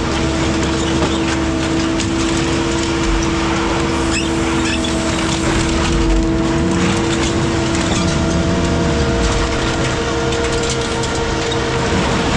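Heavy scrapyard machinery running steadily, a constant droning whine with a few held tones over rumbling noise.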